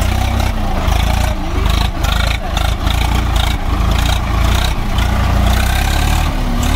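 Heavy diesel engine of a tractor or backhoe running hard under load, its pitch dipping and rising slightly.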